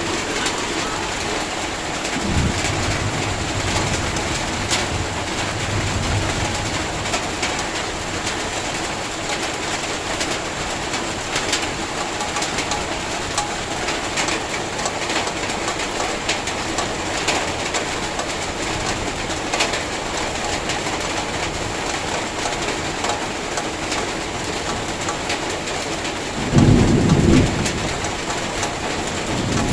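Heavy rain falling steadily, a dense hiss with scattered sharp drop ticks. Near the end comes a brief, louder low rumble lasting about a second.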